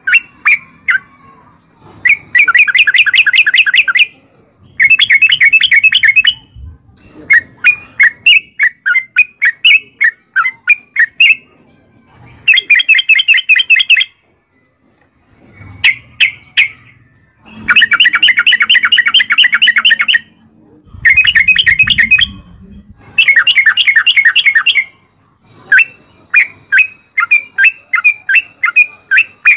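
Yellow-vented bulbul (trucukan) singing a long rolling song: repeated runs of fast, chattering notes, each about two seconds long, separated by brief pauses and loose single notes.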